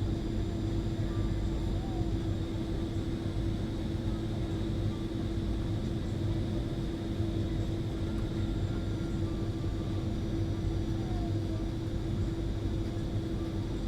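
Steady airliner cabin noise from the running engines and airflow, a low rumble with a steady hum, heard from inside the passenger cabin as the aircraft taxis after landing.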